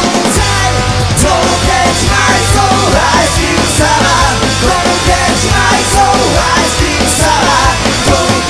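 Rock song playing: a sung melody over bass, drums and guitar, with a steady beat.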